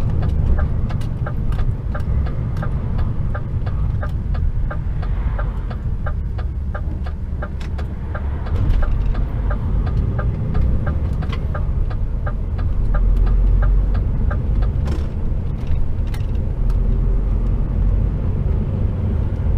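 HGV container truck's engine and road noise heard from inside the cab: a steady low rumble. Over it a regular ticking, about three ticks a second, runs for roughly the first half and then stops.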